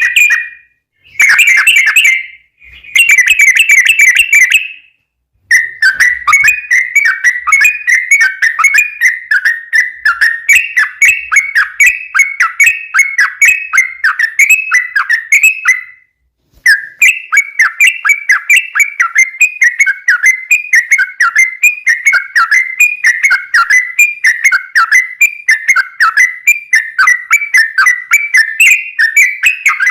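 Yellow-vented bulbul (trucuk) song, loud and close. A few short bubbling phrases come in the first five seconds, then a long, nearly unbroken run of rapid chattering notes with one brief pause about halfway through.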